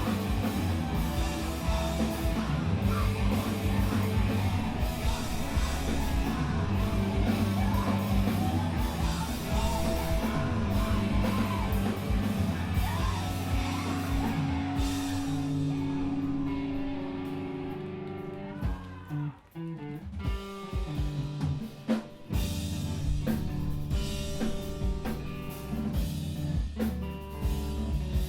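Screamo band playing live: distorted guitars, bass and drum kit with yelled vocals. About two-thirds of the way in the full band thins out and briefly drops away, then comes back in with stop-start hits.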